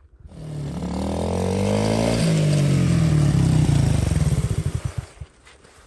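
A motor vehicle engine accelerating, its pitch climbing, then dropping sharply about two seconds in as it shifts up, before it fades away.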